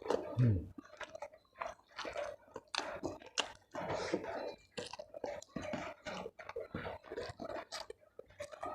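A person chewing food with their mouth close to the microphone, with many irregular crunchy bites and wet chews. There is a brief low sound about half a second in.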